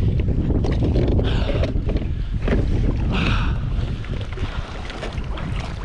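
Wind buffeting the microphone over water sloshing around a kayak on a choppy sea, with scattered short knocks and rustles of handling on the boat.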